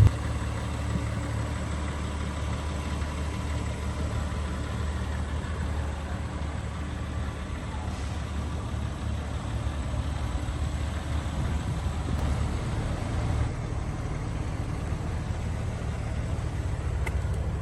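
Cabin sound of a 2021 BMW M3 (G80) with its S58 twin-turbo inline-six running steadily at low load, a low, even engine hum with road noise, well below the loud engine note that cuts off just as it begins.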